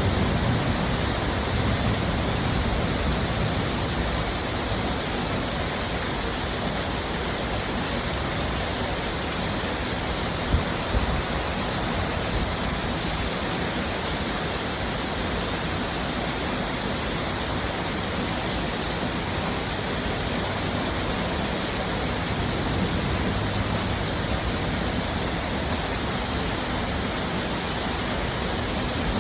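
Heavy, torrential rain falling in a steady, even hiss, with one faint tap about ten seconds in.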